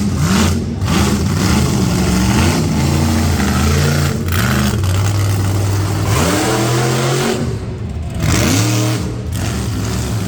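Monster truck engine revving hard during its run, the pitch climbing and dropping again and again, with long climbs about six and eight seconds in.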